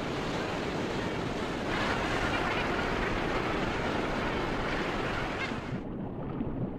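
Steady rushing of sea water and surf, swelling a little about two seconds in. Near the end the sound turns suddenly duller, its hiss cut away.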